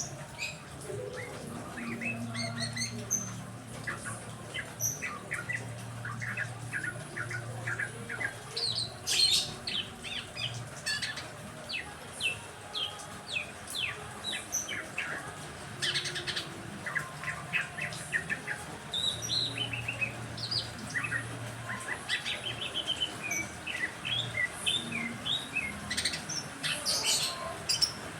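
Several caged songbirds chirping and calling, with many quick, rapid chirps and short trills overlapping. A low hum comes and goes underneath.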